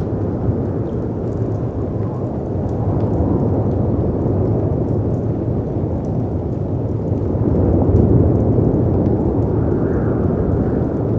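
Layered storm ambience: a steady low rush of wind and breaking sea waves that swells about eight seconds in, with faint fireplace crackles ticking over it.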